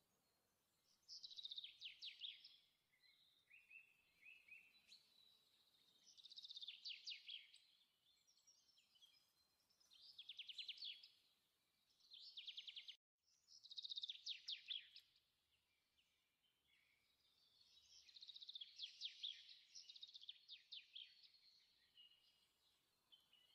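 Faint bird song: phrases of rapid high trills, each about a second long, repeating every few seconds.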